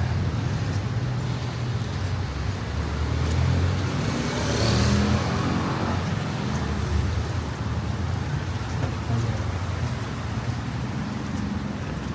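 Street traffic: motor vehicles running close by, a steady low engine rumble, with a louder passing swell about four to five seconds in.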